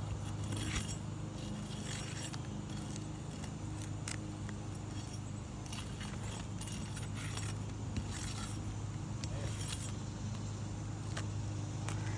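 Scattered scrapes and sharp crackles of old asphalt roof shingles being lifted and bent in a repairability test, which checks whether they are too brittle to repair, over a steady low hum.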